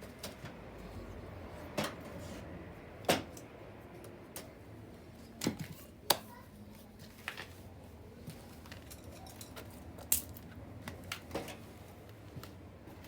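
Wood fire crackling, with irregular sharp pops and snaps over a low steady hiss; the loudest pops come about three, six and ten seconds in.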